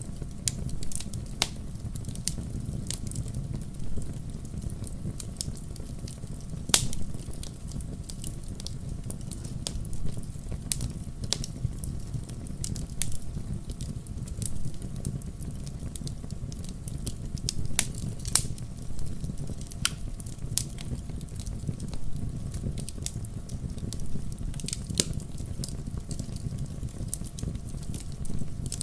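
Fire burning in a fireplace: a steady low rumble of flames with irregular sharp crackles and pops throughout, two of them louder, about a quarter and two thirds of the way through.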